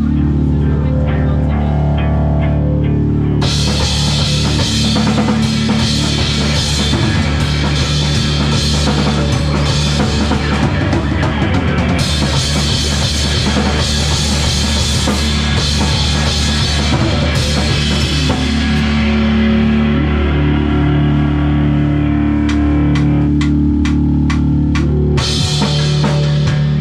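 Live rock band playing: a guitar and bass intro, then the drum kit and cymbals come in about three seconds in and the full band plays on.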